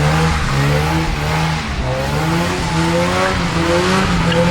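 Car engine held at high revs, its pitch wavering up and down, with tire squeal as a car is spun at a car meet.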